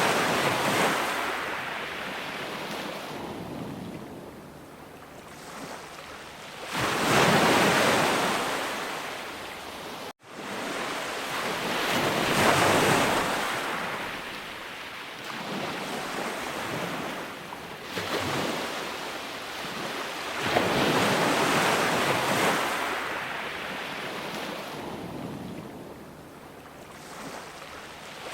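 Ocean waves breaking and washing up the shore, the surf swelling and falling back every five to eight seconds. The sound cuts out for a split second about ten seconds in.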